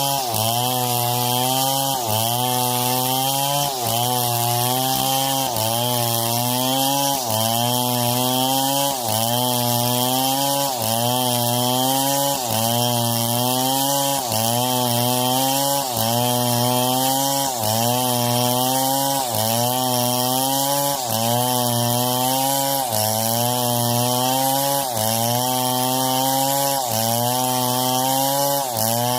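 Chainsaw engine running under load in wood, its pitch dipping and recovering about once a second.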